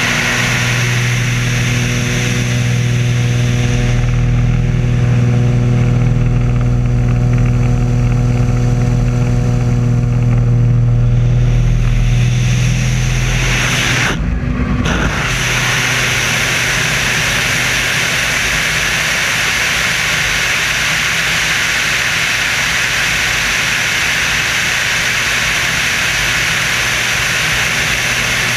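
Screamin' Sasquatch biplane's engine droning steadily with rushing air, heard from on board. About halfway through the sound dips for a moment, then goes on with a broader hiss and less of the low hum.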